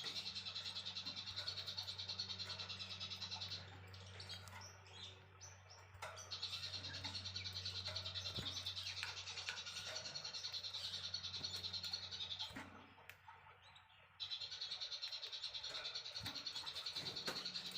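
Recorded songbird calls: a high, fast-pulsing trill that breaks off about four seconds in and again near thirteen seconds, with scattered softer chirps in the gaps, over a low steady hum.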